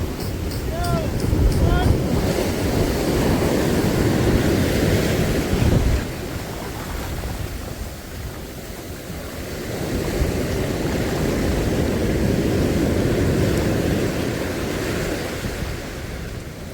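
Sea surf washing onto the shore in two long swells, the first cutting off sharply about six seconds in, with wind buffeting the microphone.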